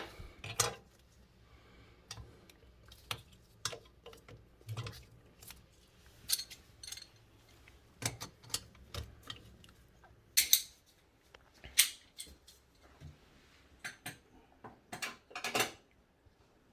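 Irregular sharp metallic clinks and taps of hand tools on a toilet's hold-down bolt nut, knocked to loosen it. The nut is seized and will not come off.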